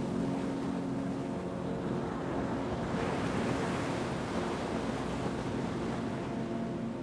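An ocean wave swelling and washing in, loudest about three to five seconds in, then easing off. A steady low drone runs beneath it and comes up again near the end.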